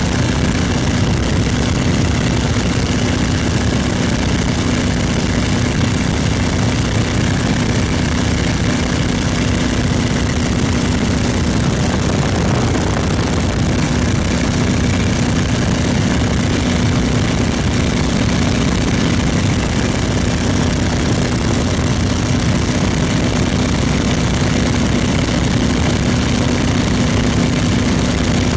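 Boeing Stearman biplane's radial engine and propeller running at a constant, unchanging drone with a steady low hum, mixed with a dense rush of air noise.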